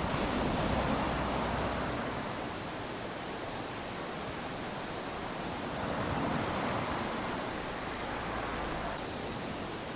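Small waves lapping onto a sandy beach, the wash swelling as a wave comes in at the start and again about six seconds in, then drawing back.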